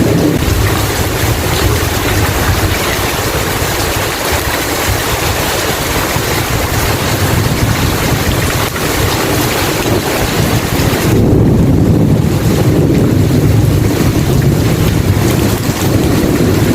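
Steady heavy rain with rolling thunder. The low thunder rumble swells about two-thirds of the way through.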